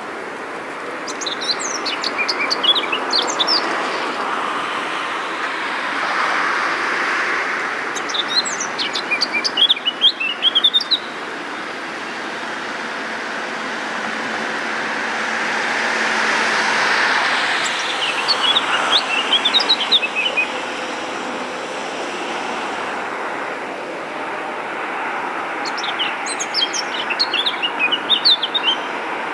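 A songbird singing short, rapid twittering phrases, four of them about eight seconds apart, over a steady wash of background noise that swells and fades twice.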